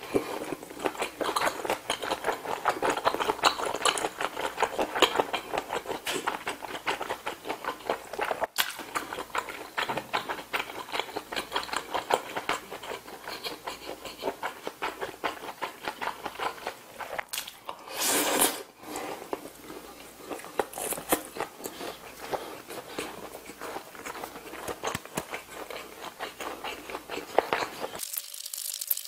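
Close-miked chewing of braised kimchi and pork, with dense wet, smacking mouth noises. There is one louder, noisier burst about 18 seconds in, and the sound drops off abruptly near the end.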